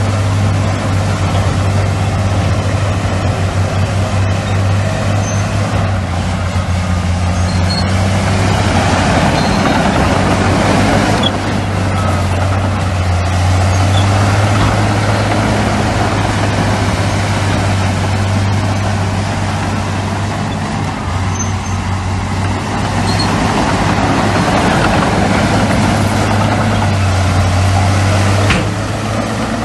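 Heavy diesel earthmoving machinery, bulldozers and dump trucks, running with a steady low engine drone; the noisy layer swells and eases as the machines work. A sharp click comes near the end, where the sound drops a little.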